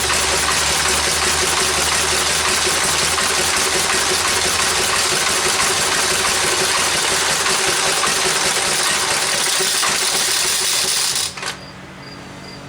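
Briggs & Stratton model FI single-cylinder engine running fast with a loud, rapid clatter, running a little rich. Near the end the loud running drops off abruptly to a much quieter low hum.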